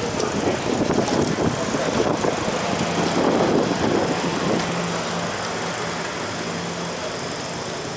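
City street traffic noise: a motor vehicle engine running with a steady low hum, clearest from about three to seven seconds in, over a constant rumble.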